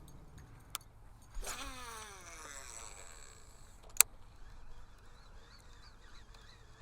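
Baitcasting reel spool whining out during a cast, its pitch falling as the spool slows, then a single sharp click about four seconds in.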